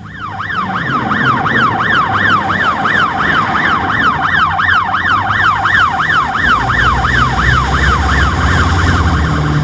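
Emergency vehicle siren on fast yelp, sweeping up and down about three times a second. It starts suddenly and eases slightly in pace near the end, with a low rumble building underneath over the last few seconds.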